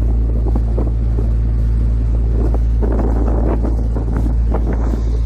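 Fishing boat's engine running with a steady low drone, with wind buffeting the microphone.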